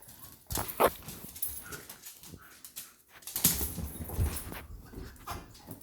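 Two beagles play-fighting: irregular scuffling and knocks with short dog whines, loudest in bursts about half a second in and again around the middle.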